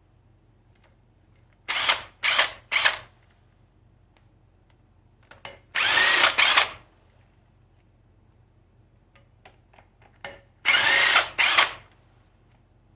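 Cordless impact gun run in short bursts, breaking loose engine bolts held with thread-locking compound. It gives three quick bursts about two seconds in, then a pair of longer bursts in the middle and another pair near the end.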